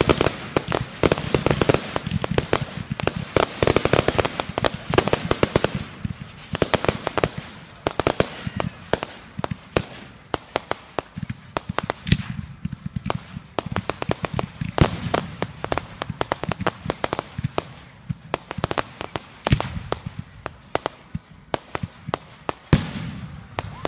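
Fireworks going off in rapid volleys of sharp cracks and bangs. The cracks come thickest for the first six seconds, then thin out to scattered bursts, with one louder bang near the end.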